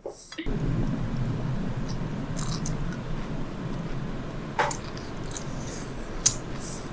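Cat purring close to the microphone, a steady low rumble, with a few sharp clicks in the second half.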